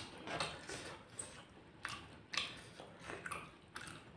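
Close-miked eating: chewing and biting fried rice and raw bird's eye chillies, with irregular short crunches and wet mouth clicks.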